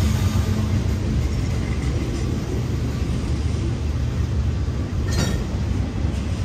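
Freight cars of a slow-moving freight train rolling past, a steady low rumble of steel wheels on the rails. The hum of a just-passed diesel locomotive fades out in the first second, and a single sharp clink sounds about five seconds in.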